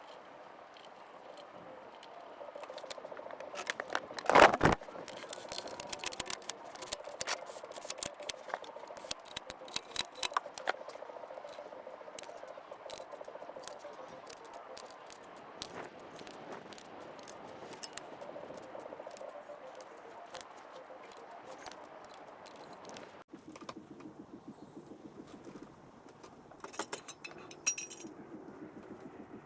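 Hand tools and metal parts clinking, rattling and scraping during car repair work, with one loud knock about four seconds in.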